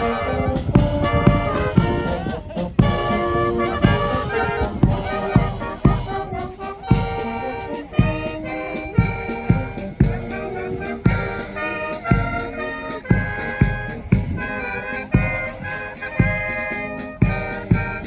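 Brass band playing a tune live outdoors, trumpets and trombones carrying the melody over a steady beat.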